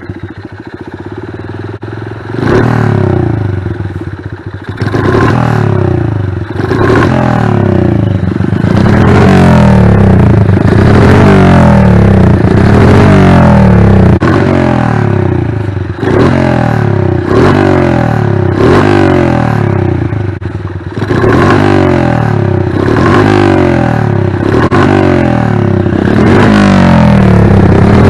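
Honda Magna 88 cc single-cylinder motorcycle engine, fitted with a variable-volume muffler, being revved over and over: its note climbs and drops back every second or two. The level drops briefly near the start and again about twenty seconds in.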